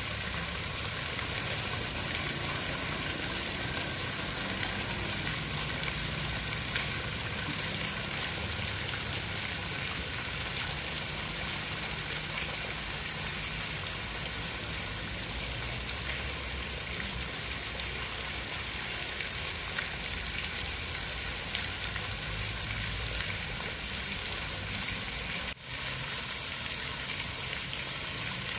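Steady hiss of rain falling, with fine crackling drops throughout. It cuts out for an instant about 25 seconds in.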